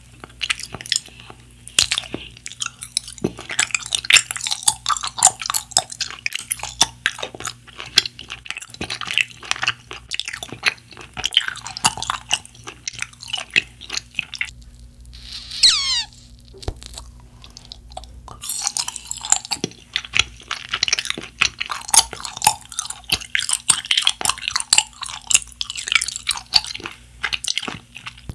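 Close-up mouth sounds of chewing a firm, chewy shark-shaped gummy jelly: sticky, wet smacks and clicks in quick, irregular succession, with a couple of short pauses.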